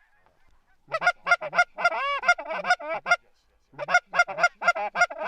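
Goose honking: quick runs of short, loud honks and clucks, about four or five a second, with one longer call about two seconds in that rises and falls in pitch.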